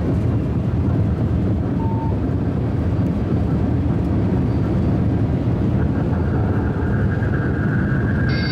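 High-speed train running at speed: a steady, even low rumble with no rise or fall. A faint steady whine joins about six seconds in, and a short high tone sounds at the very end.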